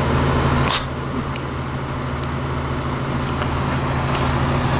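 Motor vehicle engine idling steadily, with one sharp click a little under a second in.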